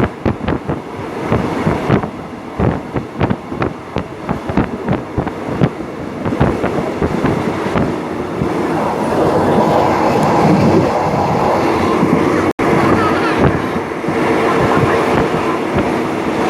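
Passenger train wheels clattering over the rails in quick irregular clicks. From about halfway through the clicking merges into a louder, steadier rumble.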